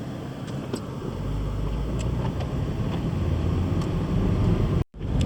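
Car driving on a snow-covered road: engine and tyre rumble that swells about a second in and keeps building, with scattered light ticks. The sound cuts out for an instant near the end.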